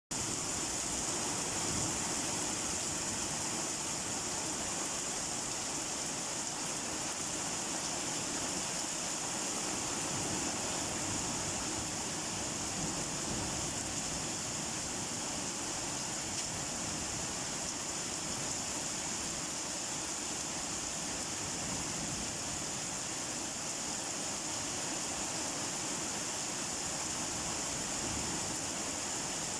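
Steady rain falling, an even hiss with no breaks, brightest in its high hiss.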